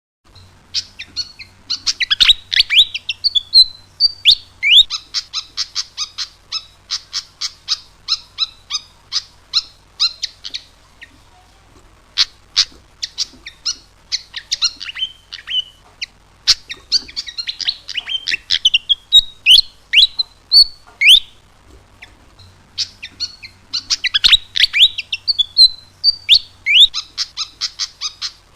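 A sikatan jawa, a small flycatcher, singing: fast strings of sharp chirps and trills with swooping phrases, broken by a few short pauses. A faint steady low hum lies under the song.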